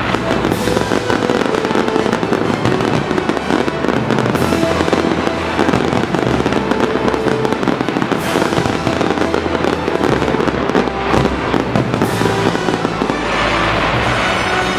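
Aerial fireworks bursting in a dense, continuous barrage of bangs and crackling, with a bigger burst about every four seconds, while music plays underneath.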